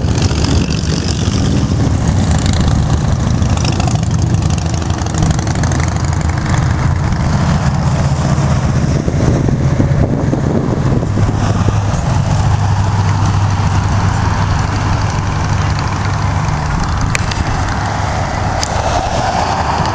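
Classic car engine running at idle, a steady low rumble.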